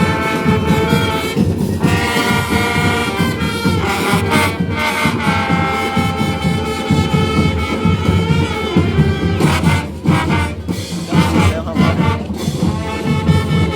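Marching band playing in the parade: brass holding long notes over drums, with a short break around ten seconds in.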